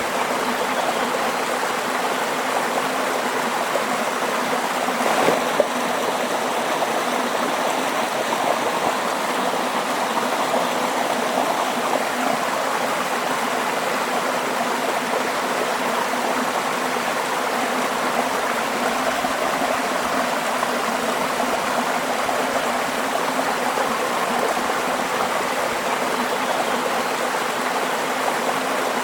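Stream of running water flowing steadily, with a brief louder knock or splash about five seconds in.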